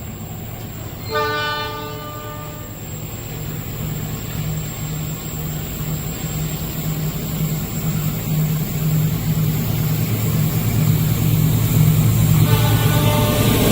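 Train approaching with a steady low rumble that grows louder. The locomotive sounds its horn: one blast about a second in, lasting about a second and a half, and another starting near the end.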